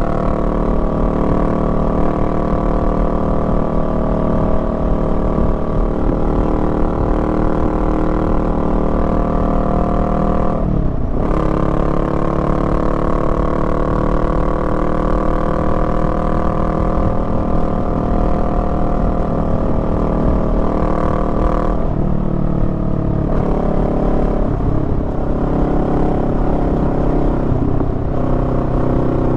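Honda Rebel 500's parallel-twin engine running steadily under way. About 11 seconds in, its note dips sharply and climbs back, and it shifts again around 22 and 25 seconds in.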